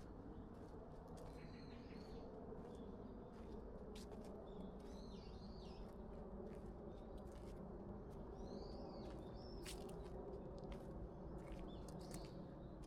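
Faint bird calls: short chirps in a few brief clusters, over a steady low background noise, with scattered soft clicks.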